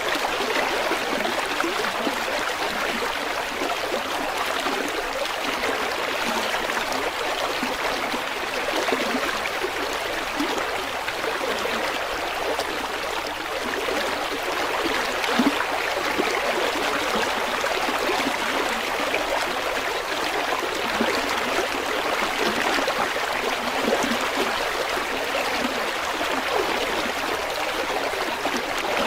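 River water flowing steadily over stones, a continuous rushing with fine gurgling and trickling.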